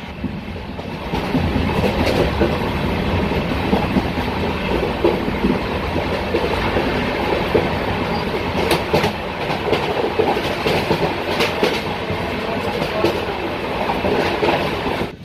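Passenger train running at speed, heard from an open coach doorway: a steady rumble of wheels on the rails, with scattered clickety-clack clicks from rail joints, more of them in the second half.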